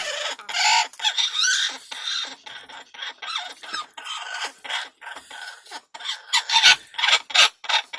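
A parrot giving a rapid string of short, raspy squawks and chatter, some rising into quick squeals, as part of its courtship display.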